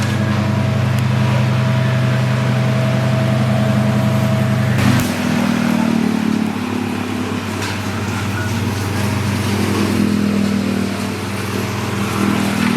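A motor vehicle's engine humming steadily, its pitch shifting about five seconds in, over a steady hiss of heavy rain.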